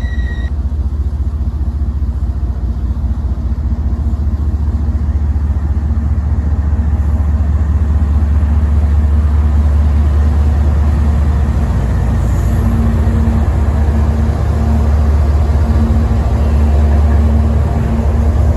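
Freight train passing close by: a loud, steady low rumble that builds slightly, with a steady low hum joining about twelve seconds in.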